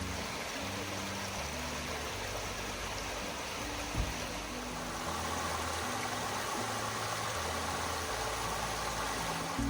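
Mountain creek running over rocks: a steady, even rush of water, with a single brief click about four seconds in.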